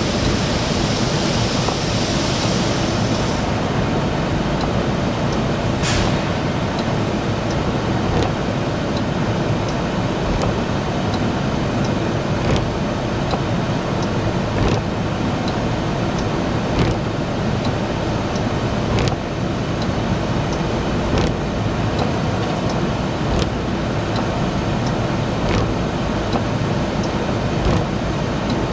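High-pressure water spray and machinery of an automatic truck wash, heard from inside the closed truck cab as a steady, loud rush. There is a brighter hiss of spray in the first few seconds, a sharp knock about six seconds in, and faint ticks about every two seconds.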